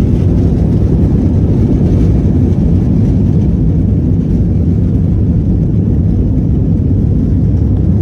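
Airbus A321 jet engines at take-off power, a steady loud rumble with its weight in the low end.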